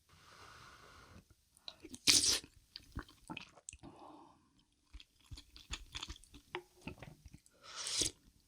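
Close-miked eating of a Korean beef-bone soup meal: chewing with crunching and many small clicks, and two louder noisy bursts, about two seconds in and near the end.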